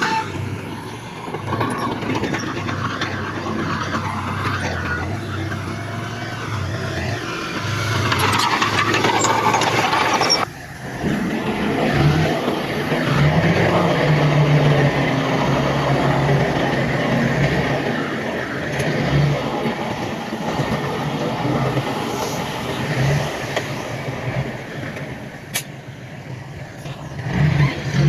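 Heavy diesel engines of earthmoving machines, a bulldozer and dump trucks, running and working under load. The sound breaks off sharply about ten seconds in, then the engines carry on with a steadier hum.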